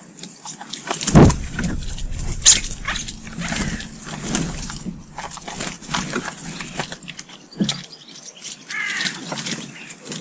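Common starlings at a garden feeder: a busy mix of harsh squawks, chattering calls and clicks, with a low thump about a second in.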